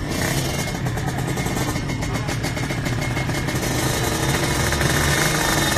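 Drag-racing motorcycle engines running at the start line, a steady, rapidly pulsing engine note.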